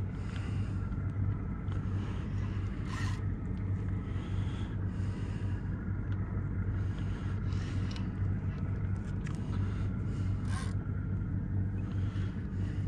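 Boat engine idling steadily, with two short sharp clicks, about three seconds in and about ten seconds in.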